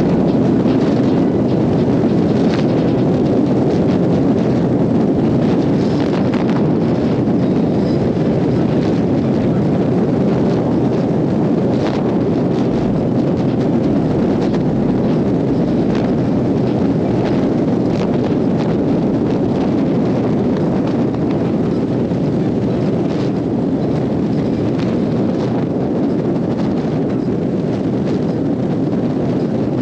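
Steady rush of wind on the microphone of a Harley-Davidson Road Glide moving at road speed, with faint buffeting knocks throughout.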